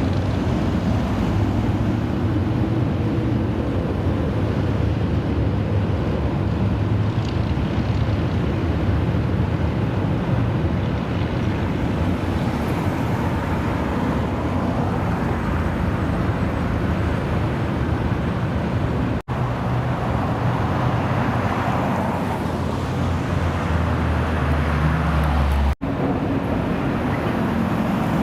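Car engine idling with a steady low rumble under wind noise on the microphone. The sound breaks off for an instant twice, about two-thirds of the way in and near the end.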